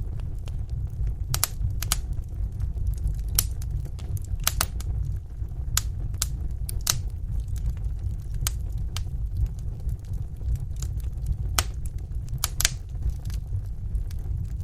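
Wood fire burning in a fireplace: a steady low rumble of the flames with irregular sharp pops and crackles of the burning logs.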